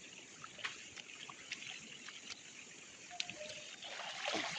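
River water running in a steady hiss, with scattered small clicks and taps, then a splash of water starting near the end.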